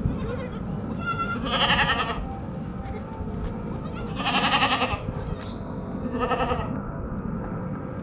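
Baby goats bleating three times, each bleat quavering, spaced about two seconds apart, over a steady low rumble.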